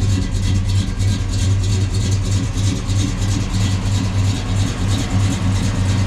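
1965 Chevrolet Chevelle's 396 big-block V8 idling steadily through its dual exhaust, a deep even rumble.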